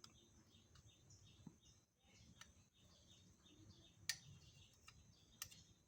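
Near silence, with faint rapid bird chirps, about four a second, through the first half and a few light clicks later on.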